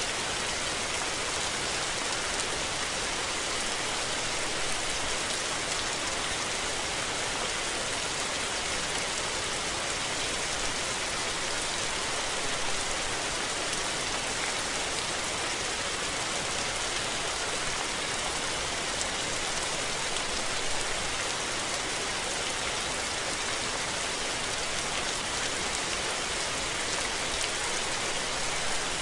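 Steady rainfall: a dense, even hiss of raindrops falling and hitting surfaces.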